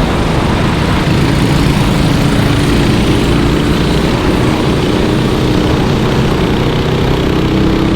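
Kart engines running at speed on the track, several engine notes at once, loud and steady.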